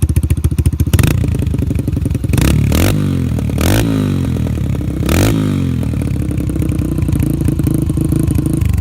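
2004 Yamaha TT-R125's single-cylinder four-stroke engine running through an FMF Powercore 4 exhaust, with an angry note. It idles with a choppy beat, is revved three times, each rev rising and falling, and then holds a faster idle.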